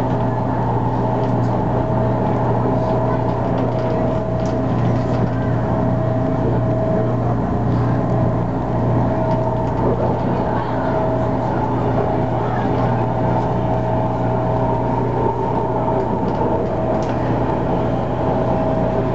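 Cabin noise of an MTR A-Train electric multiple unit on the move: a steady rumble of wheels on rail with a constant hum of several even tones from the train's electrical equipment.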